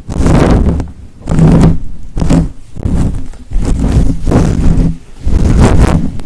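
Close-miked ASMR trigger: repeated rubbing or scratching strokes right against the microphone, about one stroke a second, each a short loud rush of scratchy noise.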